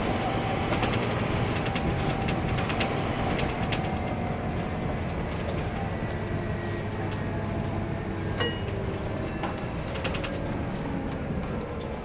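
Scania K230UB bus's five-cylinder diesel engine and drivetrain running steadily, with body rattles and clicks, getting gradually quieter. A single short, bright ding rings out about eight seconds in.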